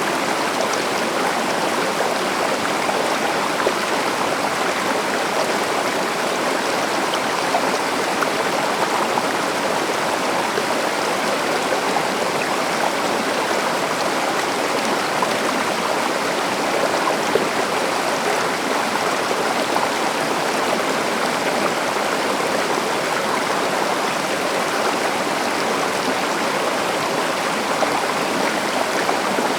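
A stream flowing over rocks, a steady rush of running water with fine splashing and gurgling.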